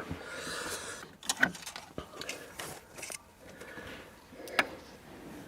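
Engine dipstick being drawn out of its tube: light metallic clicks and scraping, with two sharp clicks about a second and a half in and another near the end.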